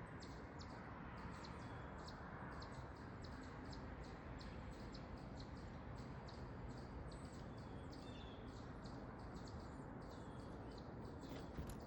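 Small backyard songbirds chirping: a steady run of short, high chirps, several a second, over a faint, even background noise.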